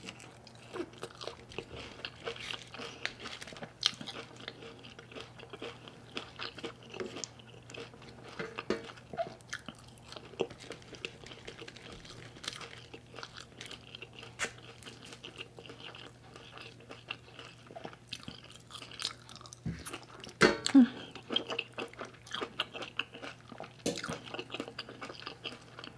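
Close-up chewing and mouth sounds of a person eating steamed cod roe with herbs, with many small wet clicks and crunches. There is a louder burst of sounds about twenty seconds in, over a faint steady hum.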